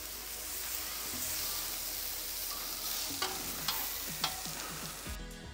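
Sliced onions and mushrooms sizzling as they fry in rendered beef fat on a hot plancha, with metal tongs clicking and scraping against the plate as they are stirred.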